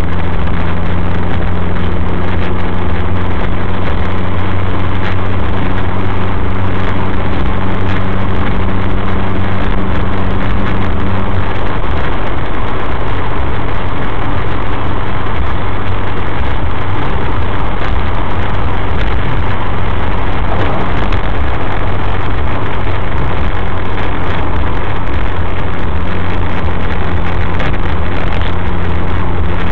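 Suzuki SX4's four-cylinder engine breathing through a K&N Apollo cold air intake, heard from inside the car while cruising: a steady low drone over tyre and road noise. About twelve seconds in, the engine note shifts and wavers, then settles back to the steady drone near the end.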